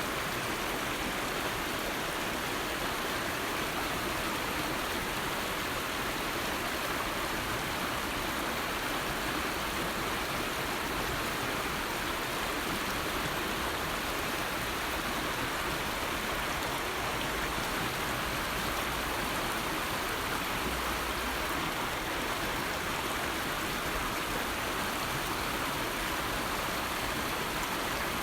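River water flowing: a steady rushing hiss with no change.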